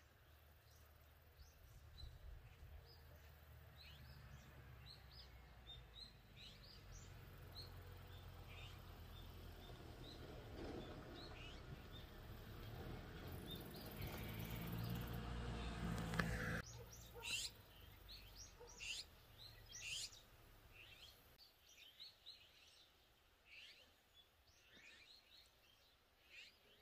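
Small birds chirping in short, repeated calls throughout, fairly faint. Under them a low rumble slowly builds and cuts off suddenly about sixteen seconds in.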